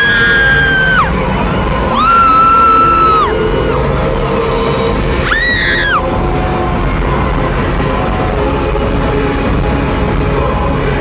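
Loud concert intro music with heavy bass, and a fan close to the microphone screaming: three long, high-pitched screams in the first six seconds, over the noise of the crowd.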